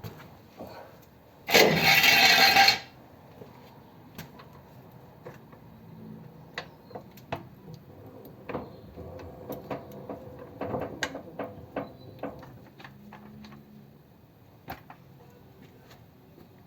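A loud rushing hiss lasting about a second, about a second and a half in, followed by scattered light clicks and knocks of hand tools being handled.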